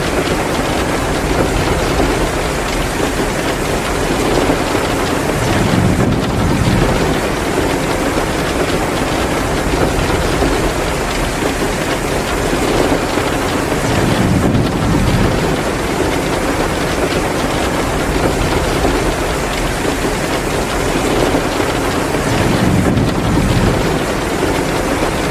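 Heavy rain pouring steadily in a dense, even wash, with a deeper swell about every eight or nine seconds.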